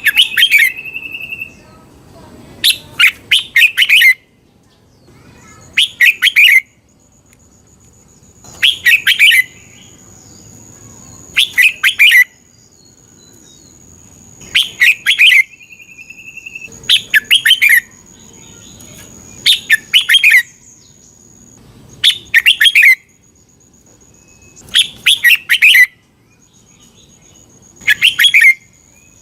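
Red-whiskered bulbul singing: short, loud phrases of quick warbling notes, repeated about every two and a half seconds.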